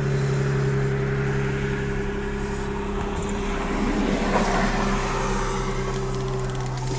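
2005 Infiniti G35 coupe's 3.5-litre V6 idling steadily just after starting, heard through its 3-inch exhaust.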